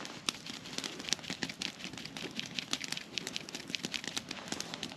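Wood campfire crackling, with many small sharp pops at an irregular pace.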